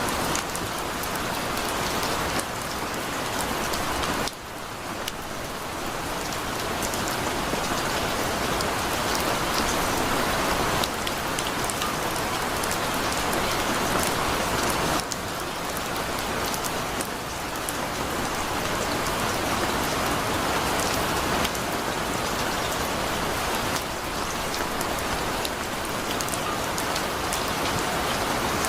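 Heavy rain falling steadily, a dense hiss of drops hitting surfaces with fine pattering ticks, with a brief dip in level about four seconds in.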